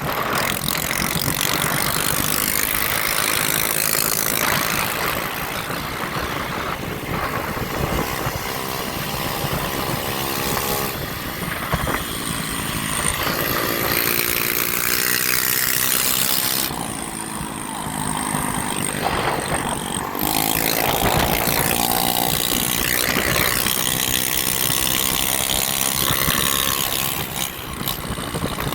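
Motorcycle engines running and revving close by, their pitch rising and falling in the middle and again near the end, over a constant rush of wind and road noise.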